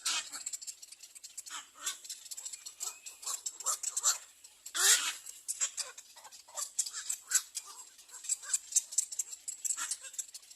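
Little egret nestlings begging for food: a rapid, continuous run of short harsh calls and clicks, with one louder, longer squawk about five seconds in.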